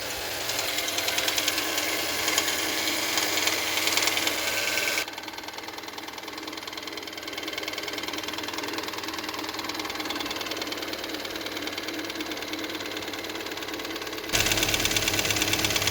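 Volkswagen 1.4 TSI (CHPA) petrol engine idling with a rapid, steady knock from the top of the engine, which the owner provisionally blames on the hydraulic lifters. The sound drops in level about five seconds in and comes back louder near the end.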